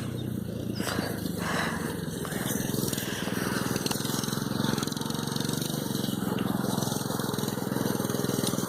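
A mini bike's small engine running steadily at low speed, close to stalling.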